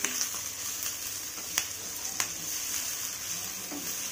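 Masala-coated ivy gourd pieces sizzling in hot oil in a nonstick frying pan as they are sautéed, a steady hiss with a few light clicks of the spatula against the pan.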